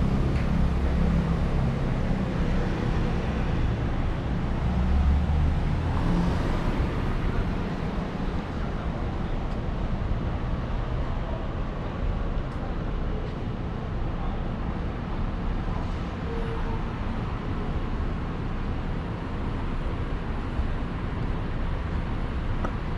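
Street traffic: a motor vehicle's engine runs close by for about the first six seconds, then the sound settles into a steady background of passing cars.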